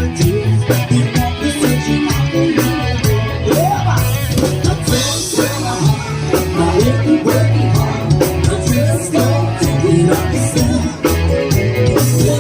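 A live band playing an upbeat rock number over a steady bass and drum beat, with a melody line that bends in pitch through the middle and a cymbal-like crash about five seconds in.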